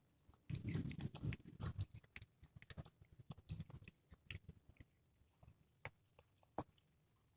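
A domestic cat chewing and crunching on a squirrel it has killed, with irregular wet clicks and snaps. The chewing is busiest in the first couple of seconds, then thins to occasional single crunches.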